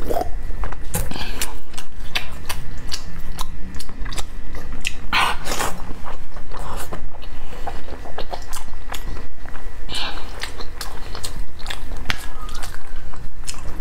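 A person biting and chewing braised pork close to a clip-on microphone, with wet smacking and clicking mouth sounds throughout. A louder stretch comes about five seconds in.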